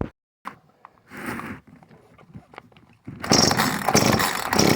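Handling noise: a click, a short rustle about a second in, then loud scraping and rattling clatter from about three seconds in.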